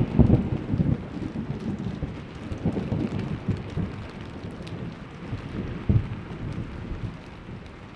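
Thunder rumbling and slowly dying away over steady rain, with a short, sharper clap of thunder about six seconds in.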